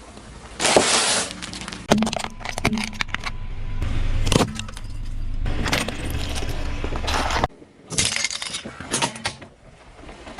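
A car's tyres rolling over and crushing objects: cracking and crunching over a low tyre and engine rumble, in several short segments that cut in and out abruptly.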